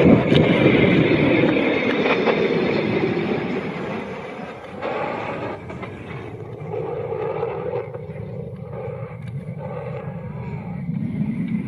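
Jet engine noise, loudest at the start and fading over the first few seconds, then a quieter, uneven rumble.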